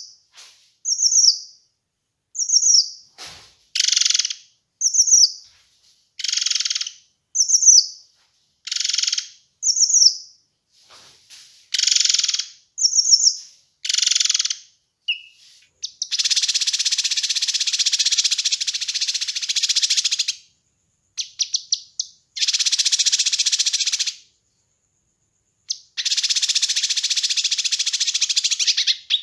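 Kinoi bird singing: short, quick falling chirps about once a second, mixed with harsh buzzing bursts. About halfway through the song turns to long, continuous rattling trills of several seconds each, separated by short pauses.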